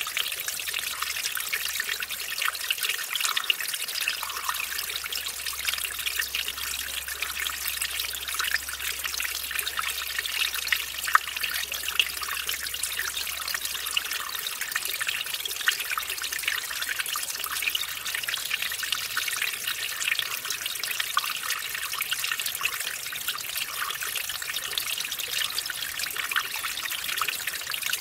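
Mountain stream splashing over a small waterfall, a steady trickling rush with many small splashes.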